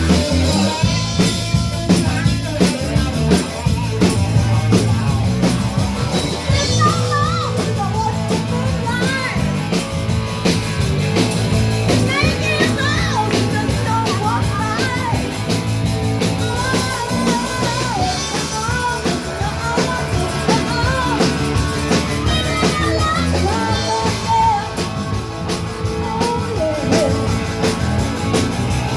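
A blues band playing live, an up-tempo rock-and-roll number with a steady bass and beat and a lead line that bends up and down in pitch.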